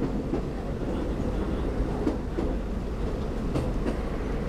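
Electric commuter train car heard from inside as it runs along the track: a steady rumble with a few light clicks from the wheels and rails.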